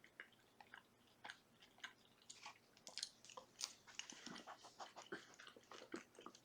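Faint, close mouth sounds of a person chewing food: soft wet clicks and small crunches, sparse at first and busier from about two seconds in.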